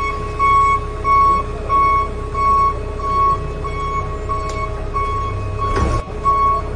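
Electronic reversing-alarm beeping: one high tone repeating evenly, about one and a half beeps a second, over a steady low hum.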